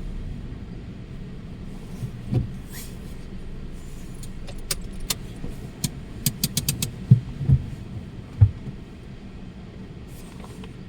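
Steady low rumble with a run of sharp clicks and knocks from about two seconds in, some in quick succession, the three heaviest knocks coming near the end.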